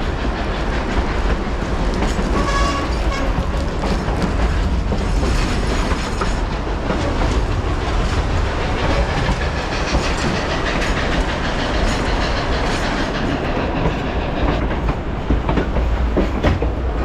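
Narrow-gauge passenger train rolling along the track, with a steady rumble and the clickety-clack of wheels over rail joints.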